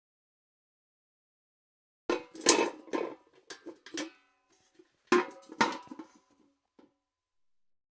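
Metal bucket clanking: a quick cluster of knocks and rattles with a short metallic ring about two seconds in, a second cluster about five seconds in, and one faint knock near the end.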